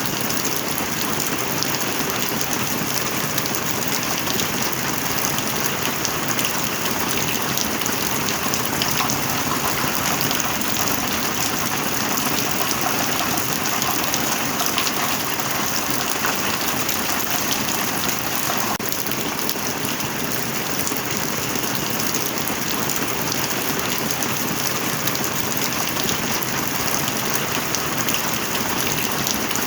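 Steady heavy rain falling on a surface, a dense even hiss full of fine drop patter.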